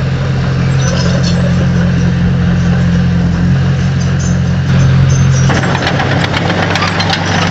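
Heavy earthmoving machine's diesel engine running steadily. From about halfway it grows noisier, with a run of sharp clicks and rattles.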